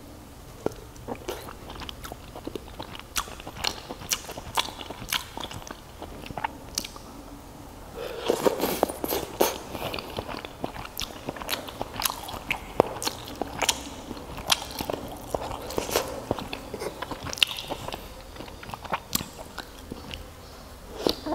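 Close-up chewing of fried crab sticks and meatballs in sauce: wet mouth sounds and many small clicks and smacks, getting busier and louder about eight seconds in.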